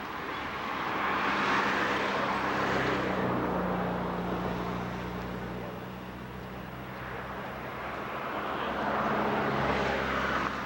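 A motor engine running steadily, its pitch shifting a little about three and a half seconds in, with two swells of rushing noise, one around two seconds in and one near the end.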